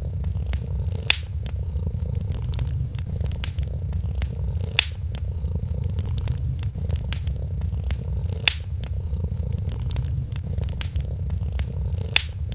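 A cat purring, a steady low rumble, under a crackling wood fire: many small crackles and four louder pops, spaced a few seconds apart.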